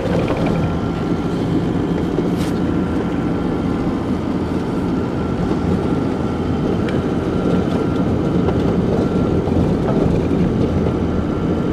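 Vehicle engine running steadily with road noise, heard from inside the cabin as it is driven.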